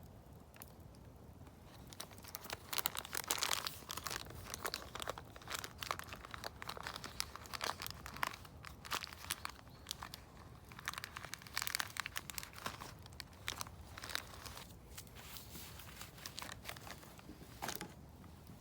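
Dry, crinkly material being torn and crumpled by hand, in irregular rustling bursts that start about two seconds in and stop shortly before the end.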